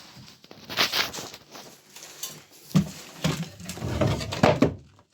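Irregular knocks, cracks and scraping from rotten, water-soaked wooden boarding being pried and pulled away, with a burst of several cracks in the second half.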